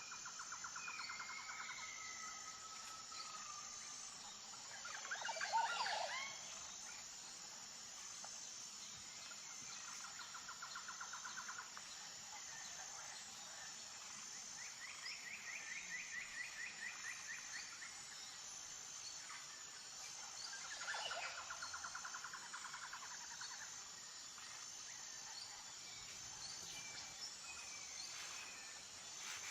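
Natural outdoor ambience of birds calling: repeated rapid trills and chirps, over a steady high pulsing hum. A louder burst of calls comes about five seconds in, and another around twenty-one seconds.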